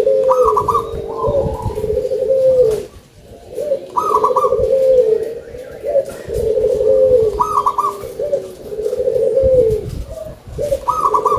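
Local perkutut (zebra dove) cooing its song loudly, the same phrase repeated about every three and a half seconds: a few quick higher notes followed by a rolling, trilled coo.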